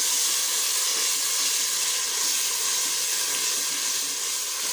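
Onion and yogurt masala sizzling in hot oil in a cooking pot, a steady hiss.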